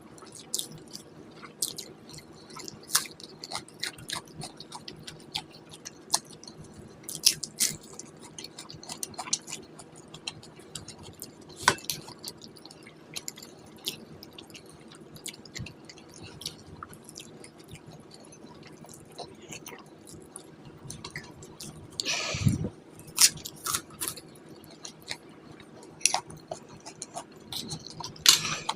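Close-miked eating sounds of a mukbang: irregular wet chewing with sharp mouth clicks and smacks, and a louder, longer burst of noise about two-thirds of the way through.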